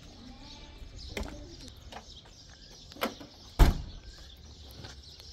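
A few sharp knocks, then one loud thump about three and a half seconds in, over faint bird chirping.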